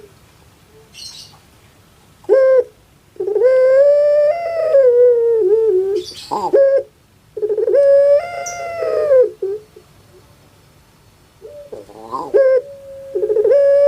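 Puter pelung (Barbary dove) cooing three times. Each call is a short note followed by a long drawn-out note that wavers and falls at the end.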